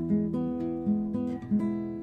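Acoustic guitar playing a melody over chords, with plucked notes and strums starting every quarter to half second and ringing out between them.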